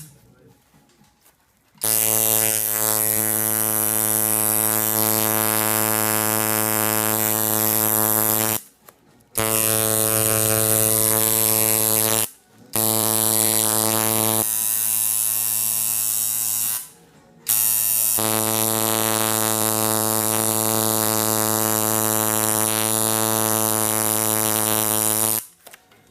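Tattoo machine buzzing at a steady pitch, run in four stretches of several seconds each with brief pauses between them. It starts about two seconds in and stops shortly before the end.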